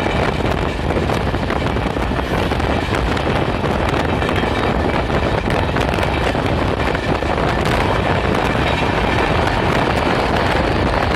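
A moving train heard from an open window: a steady rumble of wheels on the rails, with wind buffeting the microphone and scattered sharp clicks.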